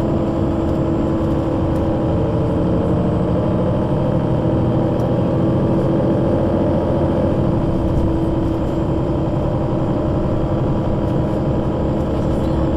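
Solaris Urbino 12 III city bus with a Voith automatic gearbox running, its engine and drivetrain giving a loud, steady drone.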